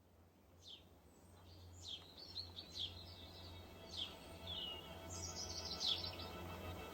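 Birds chirping with short, falling calls about once a second and a brief trill a little past the middle, while sustained music fades in underneath and the whole grows steadily louder.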